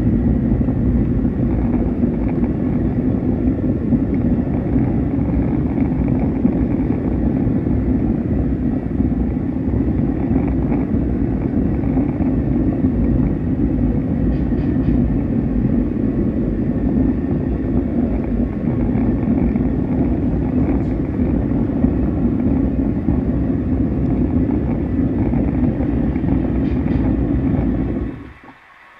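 Train running with a steady rumble, heard from on board. The rumble cuts off abruptly near the end.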